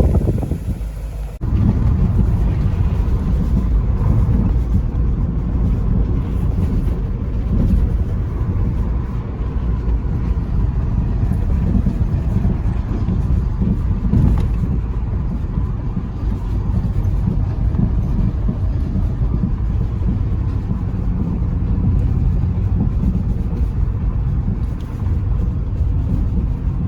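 2001 BMW 540i's V8 running under way with road noise, a steady low drone with no big rise or fall in revs. It begins abruptly about a second in, after a brief dip.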